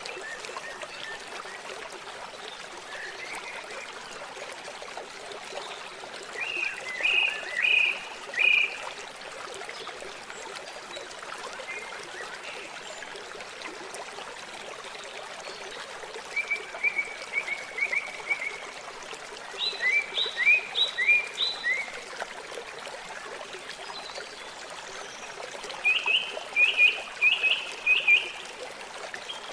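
Water running steadily, with a bird calling in four short bouts of quick, high chirping notes.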